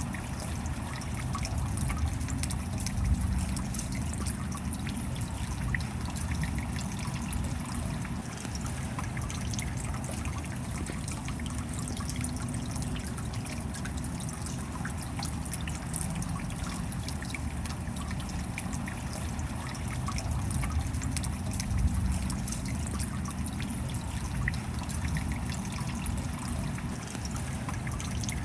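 Steady rain falling: a constant hiss dense with the small ticks of individual drops, over a low rumble.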